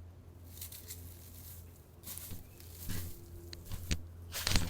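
Handling noise from an emptied suet feeder: a series of short clicks and rustles, loudest near the end, over a steady low hum.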